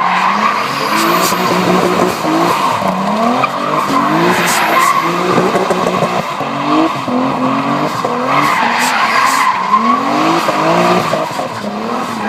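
Nissan 300ZX drifting, its tyres squealing steadily while the engine revs climb and drop back again and again, about once a second.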